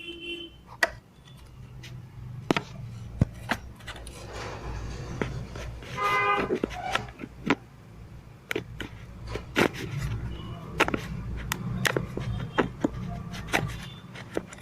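Scattered clicks and light knocks of metal parts of a mixer-grinder motor being handled, over a low steady hum, with a brief horn-like tone about six seconds in.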